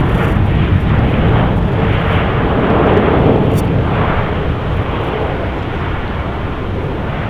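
Jet airliner engines running loud as the aircraft passes, a dense roar that slowly fades over the second half.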